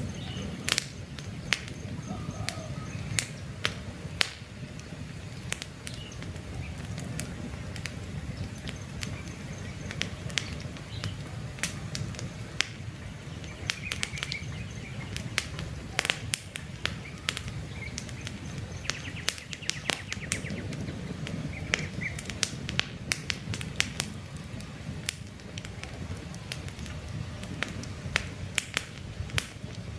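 Wood campfire burning with a steady low rumble and frequent sharp crackles and pops. Birds chirp briefly now and then in the background.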